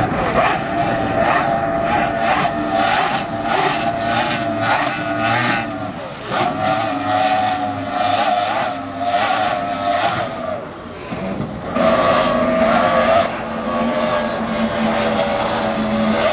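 Offshore racing powerboat engines running hard at speed, their pitch wavering, with repeated short rushes of noise. The engine sound dips about six and eleven seconds in, then picks up again louder and a little higher.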